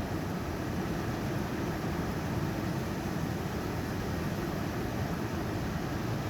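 Steady rain making an even, unbroken hiss, with most of its weight low down.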